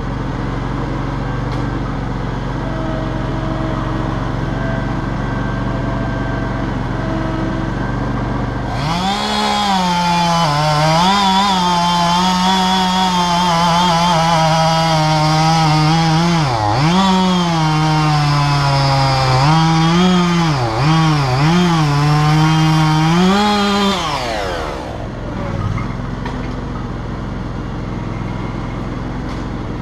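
A chainsaw revs up about nine seconds in and cuts through a downed tree trunk for about fifteen seconds, its pitch dipping again and again as the chain bites into the wood and recovering between, then drops back about twenty-five seconds in. An engine runs steadily beneath it before and after.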